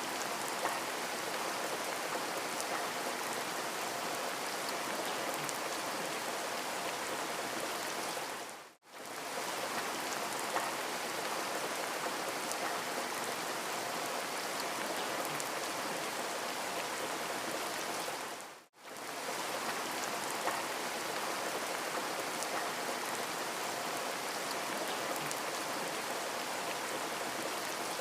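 Steady rain falling on a surface, an even hiss with a few faint drop ticks. It is a looped recording that briefly dips to silence and comes back twice, about every ten seconds.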